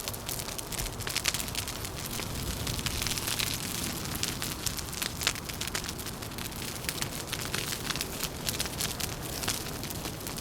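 Wood fire crackling, with many quick sharp snaps and pops, over a steady low rumble of wind.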